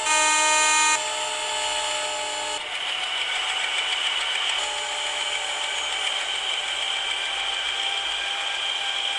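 MEMU electric train's horn sounding loudly for about a second, with a steadier pitched tone beneath it that cuts off about two and a half seconds in. After that comes a steady high-pitched electric whine from the train.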